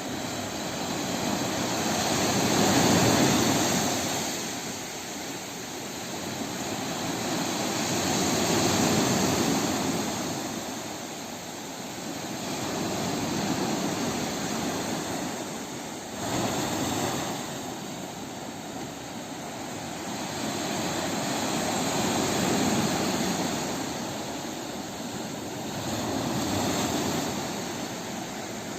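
Sea waves breaking on a shore, the surf rising and falling about every five seconds, with one wave coming in more abruptly a little past halfway.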